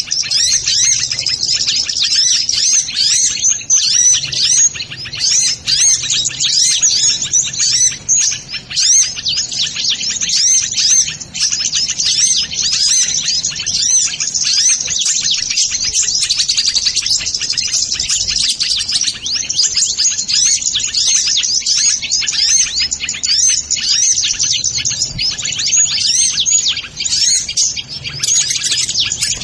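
Continuous, dense, high-pitched chirping and rapid trills of kolibri ninja, the local name for a sunbird, used as the call to lure these birds in.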